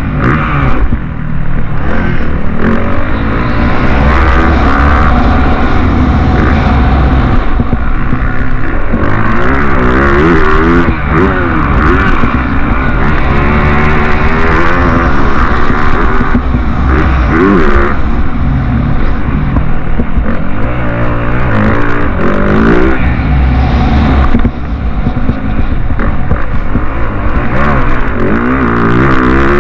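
Motocross bike engines running hard, their pitch climbing and dropping again and again with the throttle and gear changes, at times with more than one engine heard at once.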